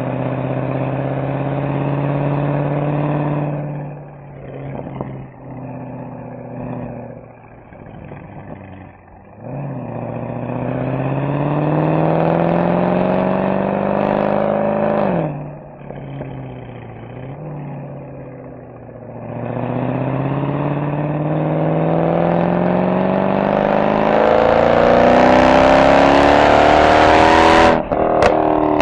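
Mercedes-AMG SL63's V8 exhaust under way, pulling up through the revs and then lifting off, with pops and crackles on the overrun. This happens twice, and after the second lift-off it climbs steadily to high revs under hard acceleration. A few sharp cracks come at the very end.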